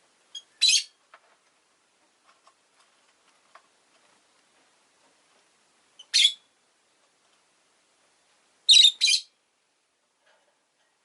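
Peach-faced lovebird giving short, shrill chirps: one about half a second in, another about six seconds in, and two in quick succession near the end, with faint small clicks in between.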